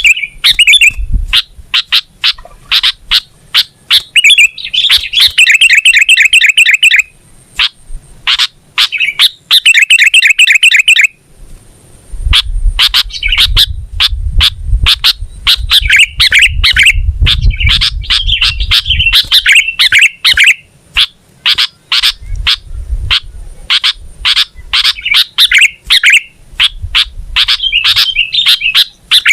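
Sooty-headed bulbul (kutilang) calling loudly: a fast run of sharp chirps, several a second, broken by buzzy, rattling trills. A low rumble lies underneath for several seconds mid-way.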